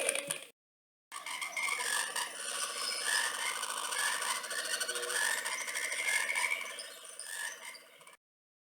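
Frogs croaking in a dense chorus of repeated calls, starting about a second in and fading out near the end.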